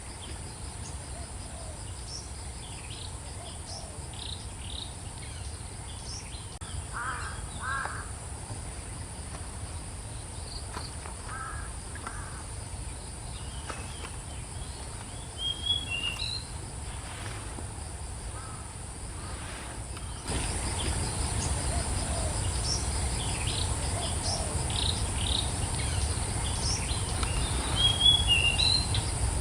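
Birds calling outdoors: scattered short chirps and a few lower, harsher calls, over a steady high insect drone and a low rumble. About twenty seconds in, the whole background abruptly gets louder.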